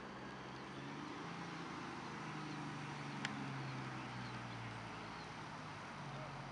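A vehicle engine running at low speed, a steady low hum whose pitch shifts slightly, over outdoor hiss. There is a single sharp click about three seconds in.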